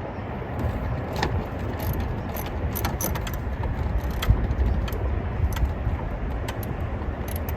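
Scattered light metallic clicks and clinks of hand tools and sockets working on engine parts, irregular rather than a steady ratchet rhythm, over a low rumbling noise.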